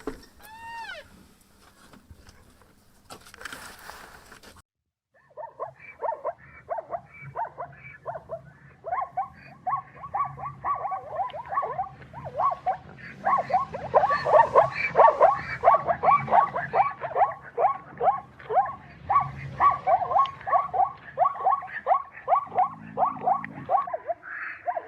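An animal calling over and over in a long, rapid series of short calls, about two to three a second, after a brief break near the start.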